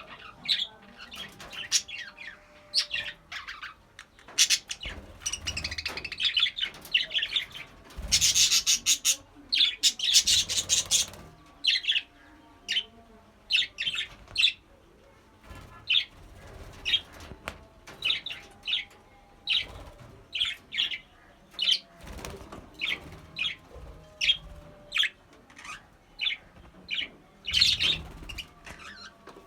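Budgerigars chirping and chattering in quick short calls, with a louder, denser, rapid flurry from about eight to eleven seconds in.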